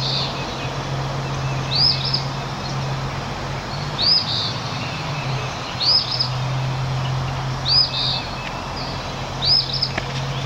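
Eastern phoebe singing its two-part 'fee-bee' song, six times at about two-second intervals, over a steady low hum.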